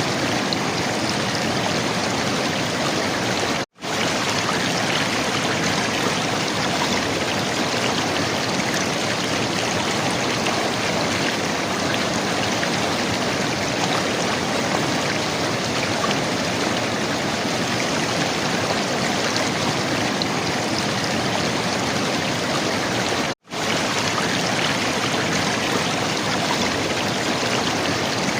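River water flowing and gurgling in a steady, even rush. The sound cuts out to silence for an instant twice, about four seconds in and again near the end.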